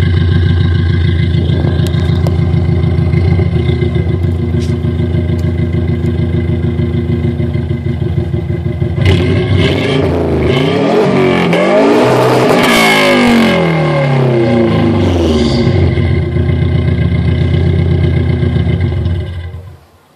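1999 Subaru Legacy GT-B's twin-turbo flat-four boxer engine idling with a steady low rumble. From about nine seconds in it is revved up and down several times for some seven seconds, then settles back to idle, and the sound cuts off shortly before the end.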